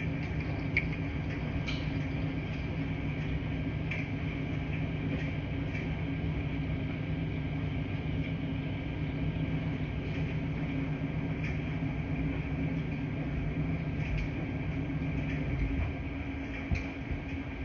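Laundry room ambience: a steady low hum of running washing machines, with faint light clicks now and then.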